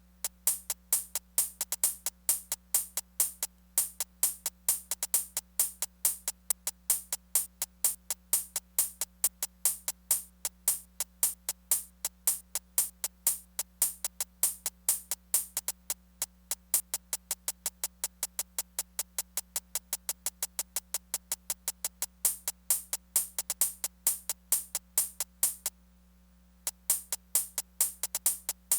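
Korg Electribe Sampler ES2 playing a programmed drum pattern of fast, crisp, high ticks with no kick drum, over a steady low hum. The pattern drops out for about a second near the end, then starts again.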